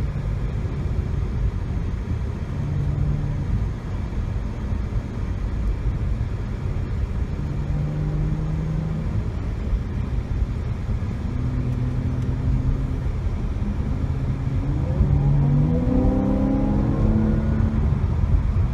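Jaguar XE S's supercharged 3.0-litre V6 running at a low, steady cruise under a rumble of road noise, then rising in pitch near the end as the car accelerates.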